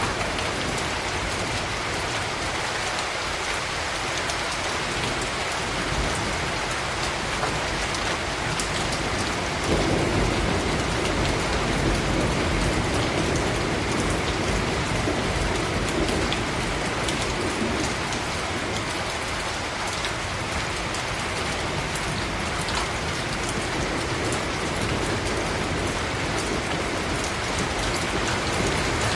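Steady rain falling, with fine drop ticks throughout. About ten seconds in, a low rumble of thunder sets in suddenly and slowly eases off.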